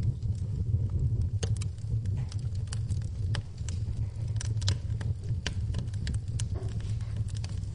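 Wood fire in a fireplace crackling, with frequent sharp, irregular pops over a steady low rumble of the burning.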